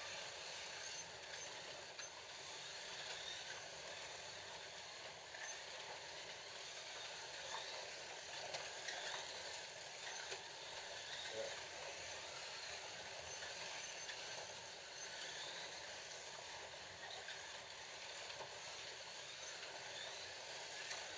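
Scalextric slot cars running laps, a steady whir of their small electric motors on the track, with a few faint clicks here and there.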